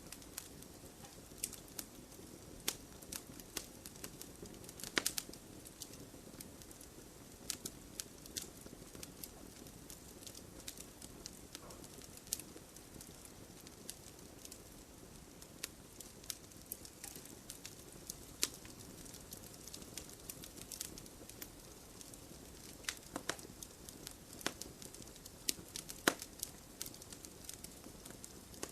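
Wood fire burning with a soft steady hiss and irregular sharp crackles and pops, a few louder snaps clustered about five seconds in and again near the end.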